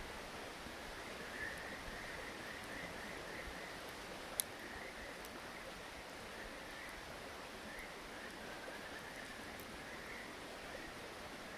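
A chorus of frogs calling continuously over a steady hiss, with one sharp crackle from the bonfire about four seconds in.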